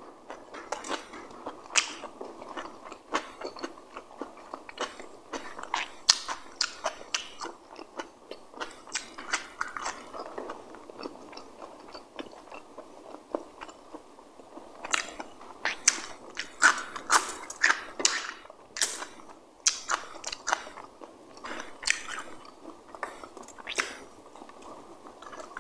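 Close-up eating sounds: a person chewing and biting food, with many irregular sharp crunches and mouth clicks.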